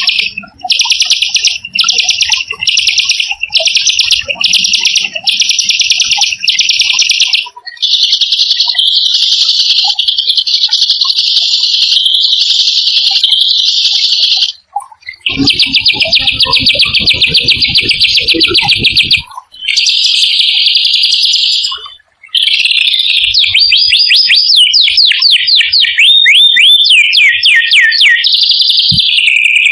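Small songbird singing loud, rapid rolling trills. It starts in a string of short bursts, then runs into longer unbroken rolls, and near the end into a run of quick down-slurred notes. For a few seconds in the middle, a low pulsing sits under the trill.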